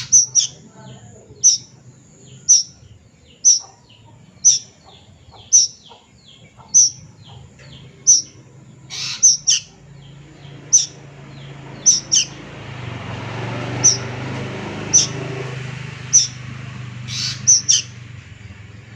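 Juvenile plaintive cuckoo (kedasih) giving short, sharp, high-pitched calls about once a second, each dropping quickly in pitch, with a few calls coming in close pairs. A steady low hum lies underneath, and a hiss swells up for a few seconds in the second half.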